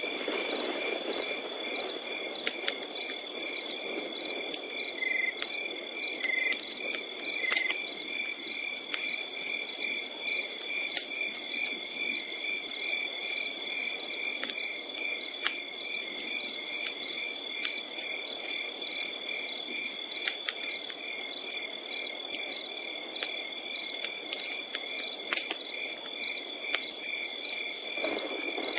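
Crickets chirping in an even rhythm, a few chirps a second, over a continuous high insect trill, with scattered sharp pops and crackles from a campfire.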